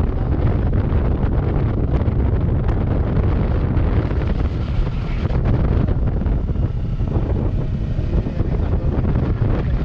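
Wind buffeting the microphone over the steady running of a Kawasaki Versys 650's parallel-twin engine while riding.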